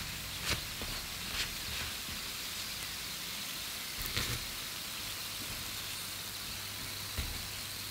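Takoyaki sizzling in oil in a takoyaki pan, a steady crackling hiss, with a few light taps as a wooden skewer pokes the balls and lifts one out.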